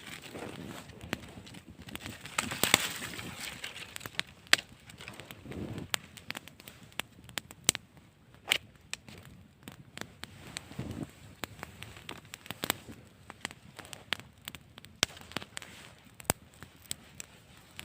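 Wood fire crackling, with many sharp, irregular pops and snaps, plus a few brief rustles.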